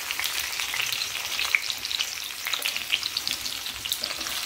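Mustard oil sizzling and crackling steadily around baby potatoes and small onions frying in a stainless-steel kadhai, as a wooden spatula gently stirs them.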